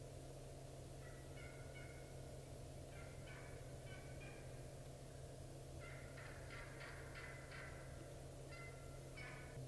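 Faint, distant wild turkey hens yelping: four short runs of quick repeated calls, a few seconds apart.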